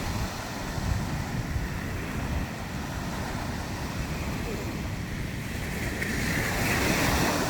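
Ocean surf washing in, with wind buffeting the microphone; a wave surges in louder about six seconds in.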